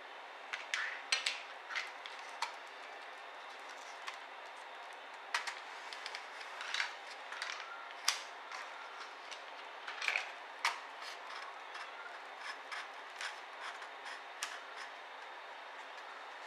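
Irregular small clicks, taps and brief scrapes of ThinkPad T60p laptop parts being handled during disassembly, over a steady hiss.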